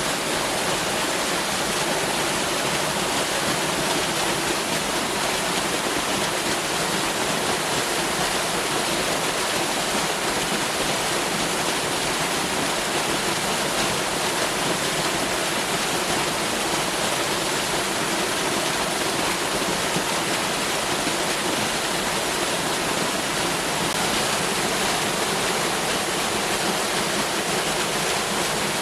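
Waterfall: a steady rush of falling water, with its sound spread evenly from low to high pitches.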